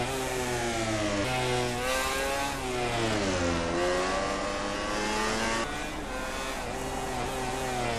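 MotoGP racing motorcycle engines at full race pace, their high-pitched note climbing and dropping sharply with gear changes. The pitch dips lowest about halfway through, then climbs again.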